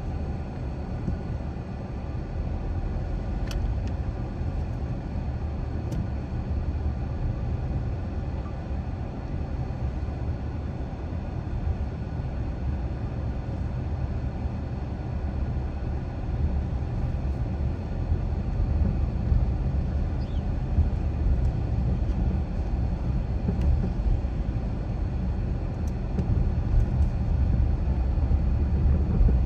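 Steady low road rumble heard from inside a car driving through a neighbourhood: engine and tyre noise, with a few faint ticks.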